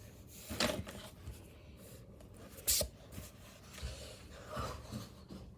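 A few short rustles and knocks against a quiet room background, the loudest about half a second in and near the middle.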